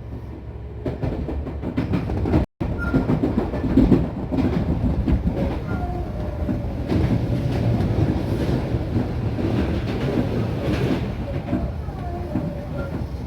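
Tobu Skytree Line electric train running along the track with a steady rumble, getting louder about a second in. The sound cuts out for an instant shortly after.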